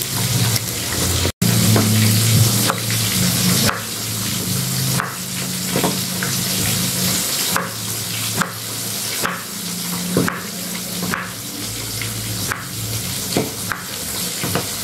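Catfish frying in hot oil, a steady sizzle, with a knife cutting a block of tempeh and knocking on a wooden chopping board about once a second.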